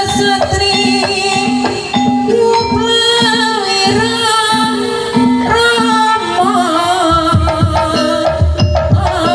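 Kuda lumping accompaniment music: drums and an even pulse of pitched, gong-like tones about one and a half times a second, under a wavering melody line.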